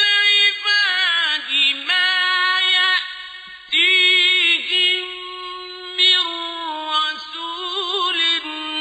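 Male Quran reciter chanting in the slow, melodic mujawwad style: long held notes with rippling ornaments. There is a short breath pause about three and a half seconds in.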